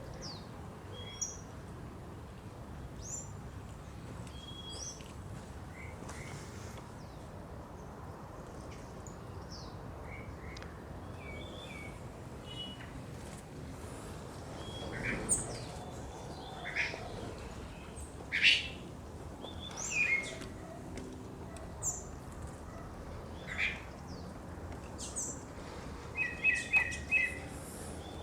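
Several wild birds singing at dawn: short high chirps and whistles scattered throughout, sparse at first and louder from about halfway, with a quick run of repeated notes near the end, over a steady low background noise.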